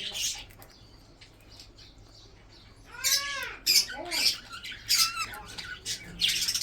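Budgerigars chirping and squawking: after a short quiet spell, a run of short calls from about three seconds in, each rising and falling in pitch, mixed with high chirps.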